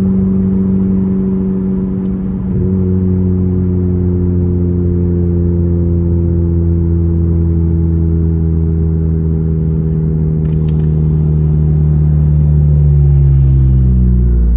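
Car engine running steadily, its pitch sinking slowly near the end.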